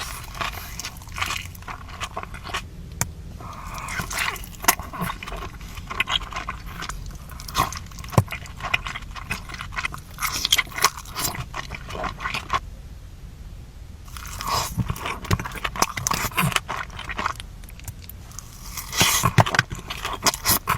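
A person biting and chewing food close to the microphone, with many irregular clicks and crunches.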